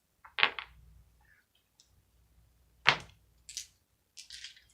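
Dice being handled and thrown: two sharp clacks about two and a half seconds apart, then a rattle of dice being shaken starts near the end.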